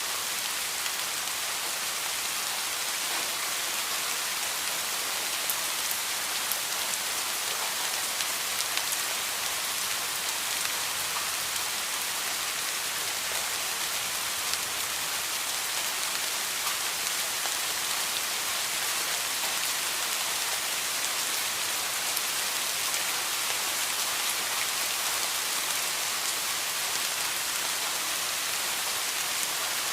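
Heavy rain falling steadily, a dense even hiss of drops with fine individual drop ticks.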